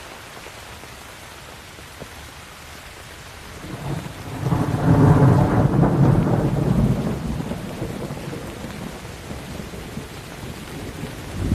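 Steady rain falling on a surface, with a roll of thunder building about four seconds in, loudest for a couple of seconds, then rumbling away. Another short thunder crack comes near the end.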